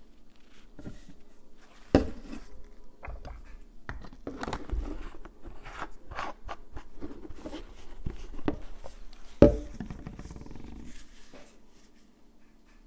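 Small manicure handling sounds: irregular clicks, taps and short scrapes of nail tools and bottles, with two sharper clicks about two seconds in and about nine seconds in.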